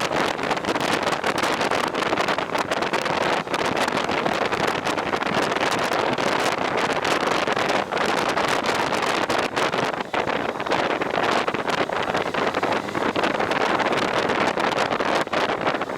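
Steady wind rush buffeting the microphone while riding a motorcycle at speed, mixed with road and engine noise.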